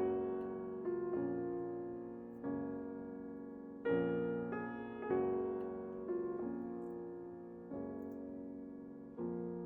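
Slow, gentle solo piano background music: soft chords struck about every second or so, each left to ring and fade.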